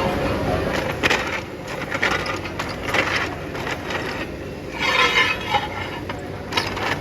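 Metalworking workshop noise: a steady mechanical din with irregular metal knocks and clatters every second or so.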